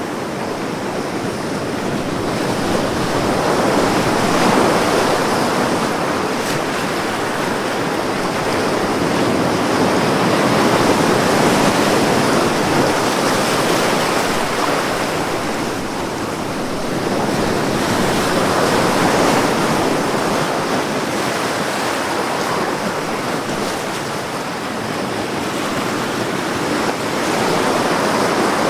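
Ocean waves washing onto a beach, the surf swelling and easing every several seconds.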